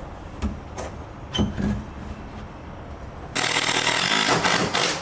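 A few light knocks on wood, then a power saw runs for about a second and a half near the end, cutting a notch into the bottom of a wooden deck post, and stops suddenly.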